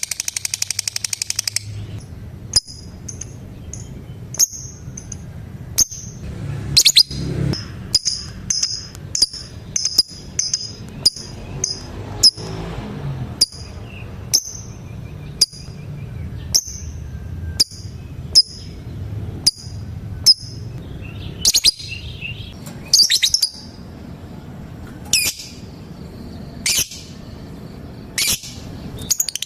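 Female lovebird calling: rapid ticking chatter for the first second or two, then a run of short, high chirps about once a second, broken by several louder, shrill calls in the second half.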